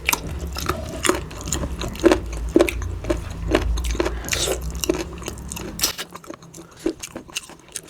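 A person chewing food close to the microphone, with many short irregular smacks and clicks of the mouth. A low hum underneath stops about six seconds in.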